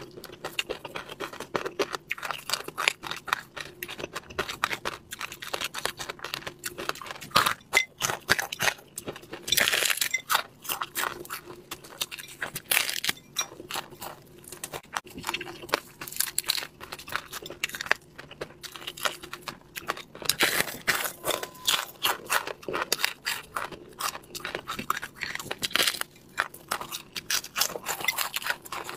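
Crunching and chewing of crispy chili-crusted fried crucian carp, with the crackle of the fried skin and flesh being torn apart by hand. The clicks come densely and unevenly throughout.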